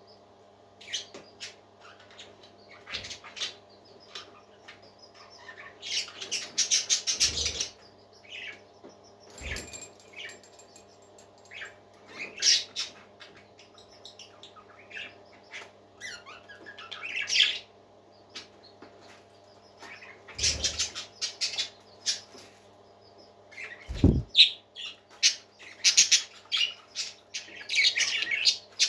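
Pet parakeets chattering with irregular chirps, squawks and quick clicky warbles, busiest in a few bursts, over a steady low hum. A few low thumps stand out, the strongest about 24 seconds in.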